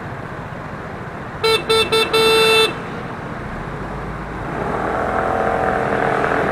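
A vehicle horn honks three times, two short blasts and then a longer one, over steady road and wind noise from a moving scooter; the riding noise grows louder near the end.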